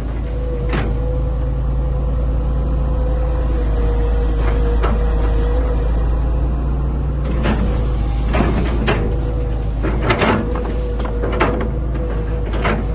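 Excavator's diesel engine running steadily with a constant whine, and several sharp metal clanks and knocks in the second half.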